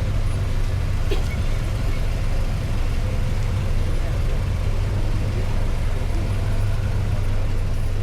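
A car engine idling with a steady low rumble, with faint voices in the background.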